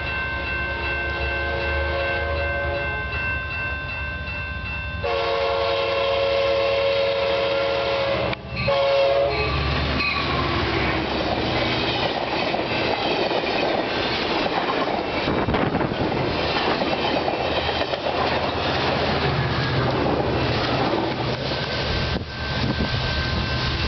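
Horn of an Amtrak F59PHI diesel locomotive sounding for a grade crossing, with a louder blast about five to nine seconds in. The train then rushes past close by, its Amfleet coaches' wheels clattering over the rail joints.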